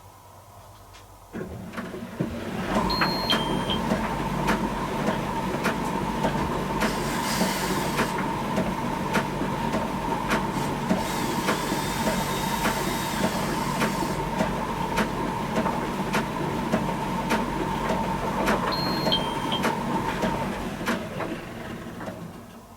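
Miele T1 heat-pump tumble dryer running: the drum motor starts about a second in with a steady hum and a whine, with regular light knocks as the load tumbles. It stops shortly before the end, as the drum pauses between turns.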